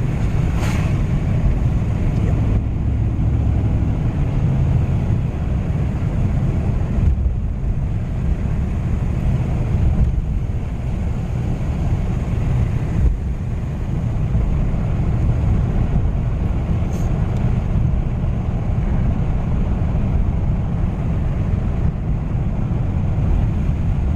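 Steady low rumble of a car's engine and tyres on the road, heard from inside the cabin while driving, with a couple of faint ticks.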